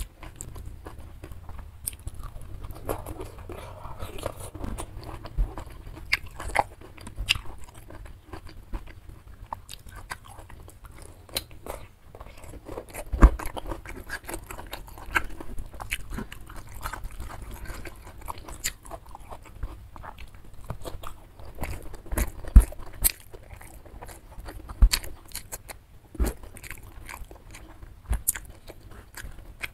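Close-miked chewing and crunching of a rice meal eaten by hand, with many short sharp crunches and wet mouth clicks, the loudest about 13 and 22 seconds in. Fingers squish and mix rice on a banana leaf between bites.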